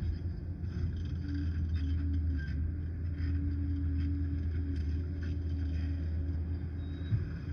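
Liebherr 746 crawler dozer's diesel engine running with a steady low drone, with light clanks now and then.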